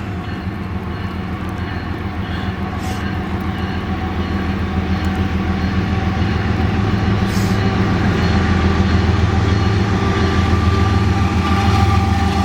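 Diesel locomotives leading a freight train approach, their low engine rumble growing steadily louder.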